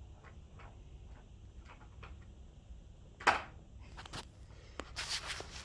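A sharp knock about three seconds in, followed by several lighter clicks and rustling, among faint small ticks.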